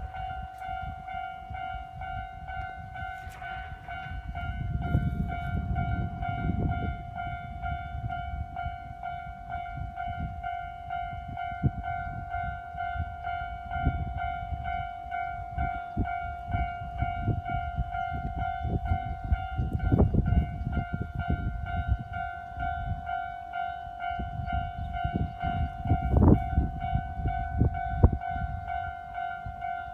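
Nagano Electric Railway electric train passing with a low rumble and sharp wheel clacks over the rails, while a level-crossing warning bell rings steadily.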